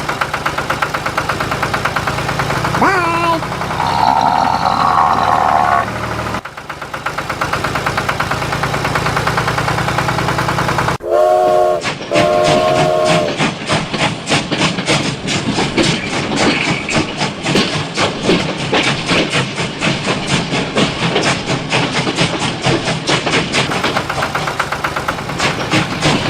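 Train running with a steady, fast rhythmic clatter like wheels over rail joints. Two short horn blasts sound a little before halfway through.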